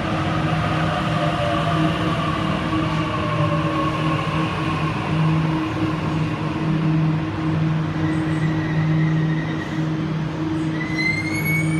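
Sydney Trains Waratah electric train at the platform, giving a steady electrical hum. A falling motor whine dies away over the first few seconds as it slows, and a faint rising whine comes in near the end.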